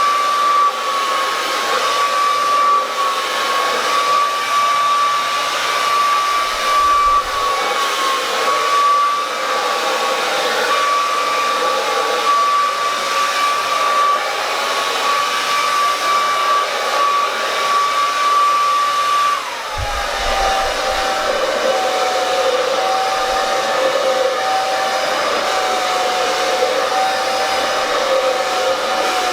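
Handheld hair dryer blowing steadily, a rush of air with a steady whine. About two-thirds of the way through, the whine drops to a lower pitch and stays there.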